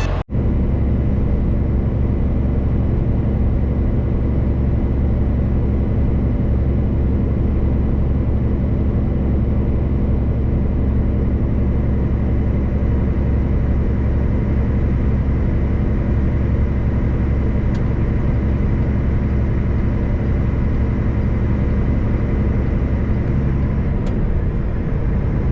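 Semi-truck's diesel engine running steadily, a loud, even low drone that holds the same pitch throughout.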